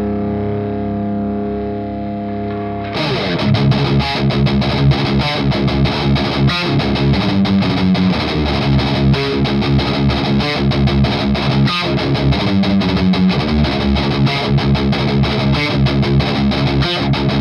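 Electric guitar driven by an overdrive pedal into an EVH Iconic amp, playing a distorted riff. A held chord rings for about three seconds, then a sudden change into a busy rhythmic passage of short, chopped notes.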